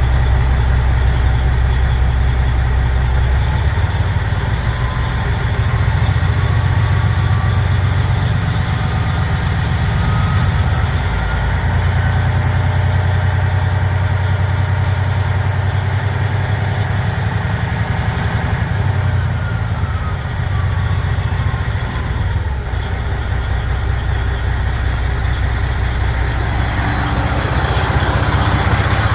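Rebuilt Detroit Diesel Series 60 14.0 L inline-six diesel engine running steadily. A high whine rises over the first ten seconds or so, then falls away around two-thirds of the way through.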